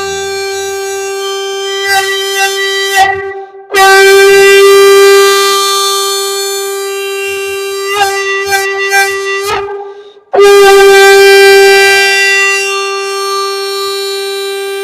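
Shankha (conch shell) blown in long, steady, single-pitched blasts, broken twice by short pauses for breath, each new blast starting loud.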